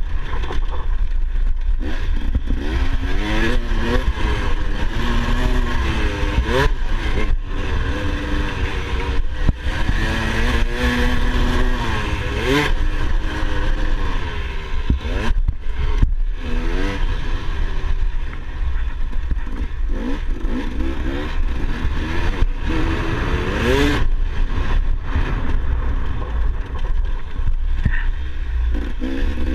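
Motocross dirt bike engine revving up and down over and over as it is ridden, its pitch rising and falling with the throttle and gear changes, with a few brief drops where the throttle is shut.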